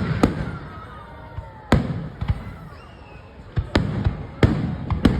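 Fireworks bursting overhead: sharp bangs at irregular intervals, several in a few seconds, each followed by a low rumbling echo.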